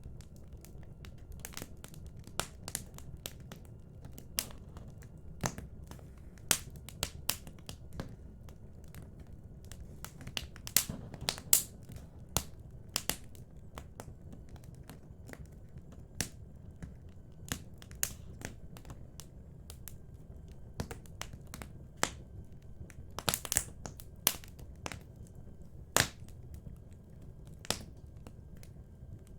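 Wood fire burning in a fireplace: a low steady rumble of flame with irregular sharp crackles and pops, some coming in quick clusters.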